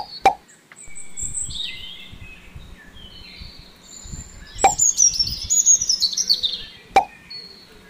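Small birds chirping and twittering in high, quick trills, loudest in the second half. Three short, sharp plopping clicks land over them: one just after the start, one midway and one near the end.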